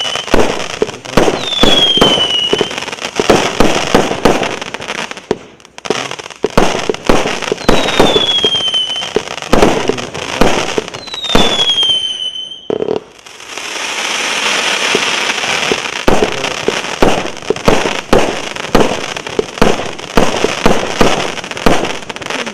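A 100-shot firework cake with 0.8-inch tubes firing in quick succession: a steady stream of sharp launch thumps and bursts. Four whistles fall in pitch during the first half, and a dense crackling fizz runs for a few seconds just past the middle.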